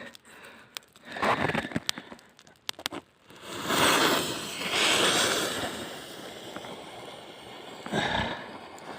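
Rustling, scraping and small snaps of kindling and birch bark being handled in snow while a campfire is lit. About three and a half seconds in, a longer hissing scrape swells and then fades to a low hiss.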